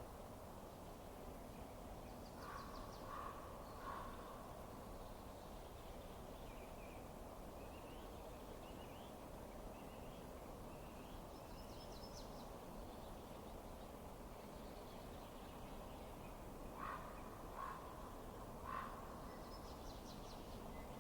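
Birds calling over a steady low background noise: three short calls about three seconds in and three more near the end, with faint high chirps in between.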